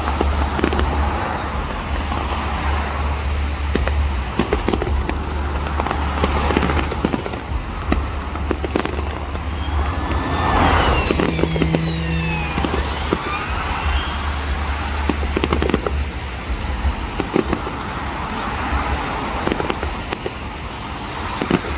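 Fireworks display: repeated bangs and crackling from aerial shells going off, with several whistling fireworks gliding in pitch a little after halfway. A steady low rumble runs underneath.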